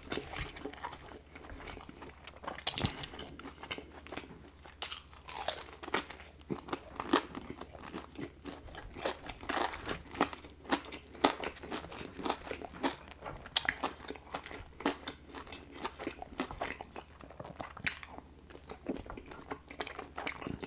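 Close-miked biting and chewing of a crispy fried chicken tender, the breading giving irregular sharp crunches.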